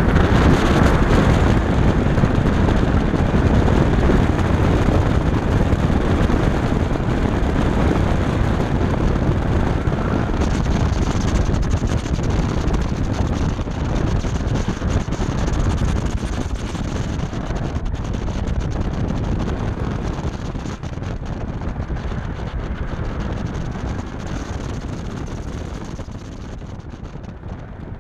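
BMW F10 535i's turbocharged straight-six engine pulling hard through an autocross course, heard through heavy wind rushing over an outside-mounted camera microphone; the noise eases somewhat near the end.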